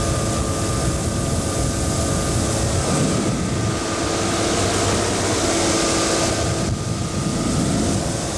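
Small boat's outboard motor running steadily underway, its hum of steady tones over an even hiss of wind and water.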